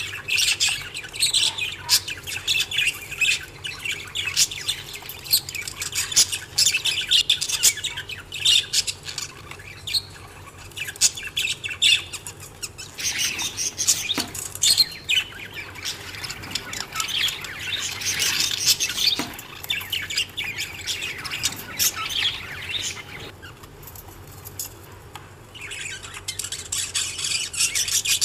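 A flock of budgerigars chirping and chattering, many quick overlapping chirps at once. The calls thin out briefly about three quarters of the way through, then pick up again.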